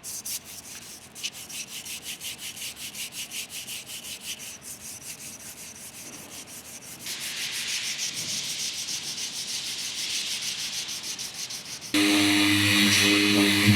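Hand sanding block with 240-grit paper rubbed back and forth over a car door panel in quick, even strokes, block-sanding to find dents; the strokes get louder about seven seconds in. About twelve seconds in, a steady machine hum with a whine starts suddenly and becomes the loudest sound.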